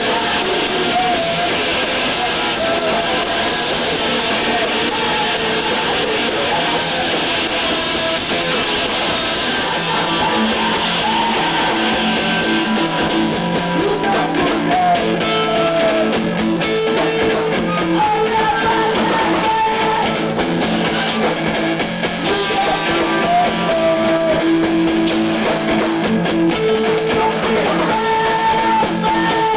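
Rock music with electric guitars, sustained notes with occasional bends over a dense, noisy top.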